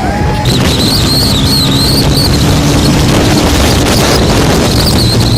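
Motorcycle running at riding speed, its engine rumble mixed with wind buffeting the microphone. A high, wavering whine comes in about half a second in and returns near the end.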